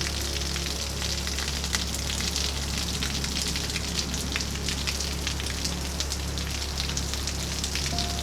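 Steady rain falling, a continuous hiss thick with the patter of individual drops.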